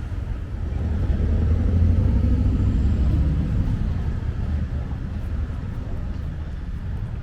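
Low engine rumble that swells over the first couple of seconds and then slowly fades, like a motor vehicle passing close by.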